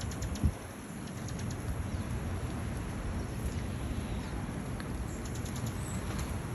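Wind blowing across the microphone with a steady low rumble, one thump about half a second in. Faint quick high ticks come in clusters near the start and again about five seconds in, fitting sleet or ice pellets striking nearby surfaces.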